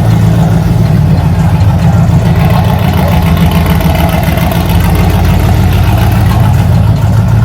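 A car engine idling steadily with a loud, deep rumble.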